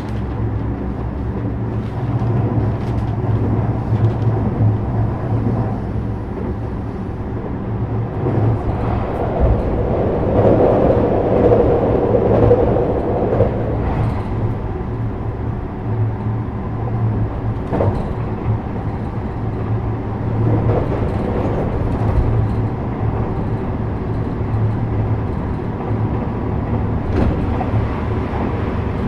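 JR West 321 series electric train running, heard from inside the passenger car: a steady low rumble with occasional knocks. It grows louder and fuller for a few seconds about ten seconds in.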